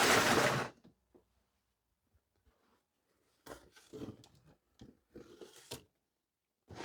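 Cardboard boxes and packaging being handled: a loud rustle and scrape at the start, a few faint rustles and clicks partway through, and another rustle near the end, with stillness in between.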